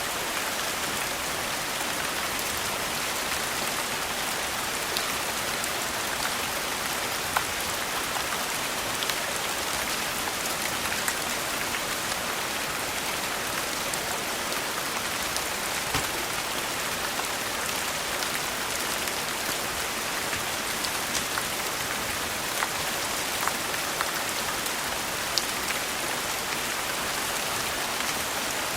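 Steady rain falling, an even hiss with scattered single sharp clicks every second or two.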